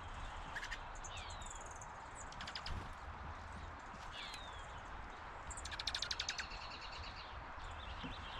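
Backyard birds calling: short chirps and a couple of quick descending whistles, with rapid rattling calls twice, the second, about six seconds in, the loudest. A steady low rumble runs underneath.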